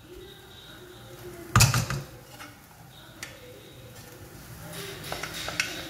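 Mashed boiled potato being scraped out of a steel vessel into a stainless-steel frying pan, with one loud knock about a second and a half in, then a few faint ticks and scrapes.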